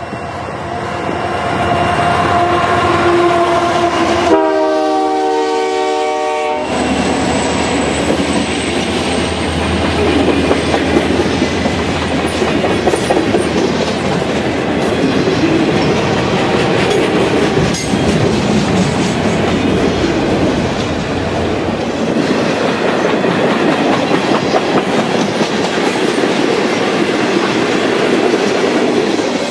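Freight train locomotive horn sounding, then a loud sustained horn blast about four to seven seconds in. After it, the freight cars roll past with steady wheel noise and clickety-clack over the rail joints.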